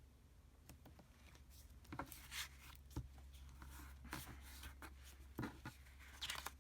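Faint paper handling: paper rustling and being rubbed and pressed down, with a few light taps, over a steady low hum.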